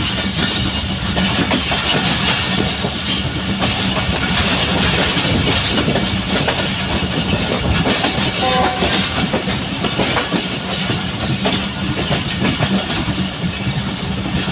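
Moving passenger train heard from inside a carriage by the window: a steady rumble with wheels clattering over the rail joints.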